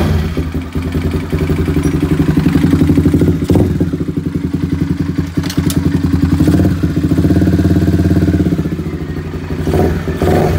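Honda CBR150's single-cylinder four-stroke engine idling steadily just after starting, with a couple of short knocks about three and a half and five and a half seconds in.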